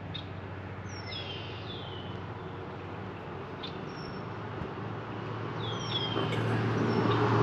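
Small birds chirping in short, downward-sliding calls, a few about a second in and again near the end, over a steady low hum that grows louder in the last two seconds.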